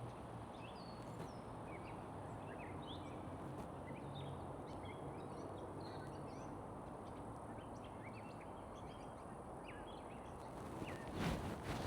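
Songbirds chirping: many short, high chirps and quick pitch glides scattered throughout, over a steady low background rush. Near the end, wind noise on the microphone rises.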